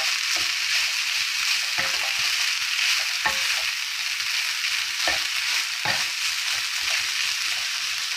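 Fried rice with diced ham and carrot sizzling steadily in a nonstick pan while a wooden spatula stirs and scrapes it, with a few short knocks of the spatula against the pan.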